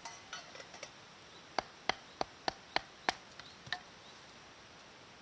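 Wood being chopped: a quick run of six sharp knocks, about three a second, then a few fainter taps.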